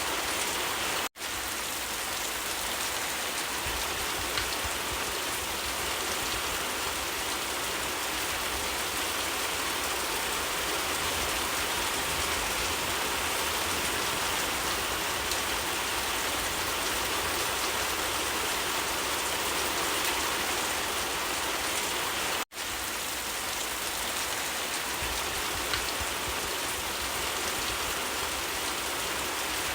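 Steady rain falling in a dense, even patter. The sound cuts out for a split second twice, about a second in and again around 22 seconds in.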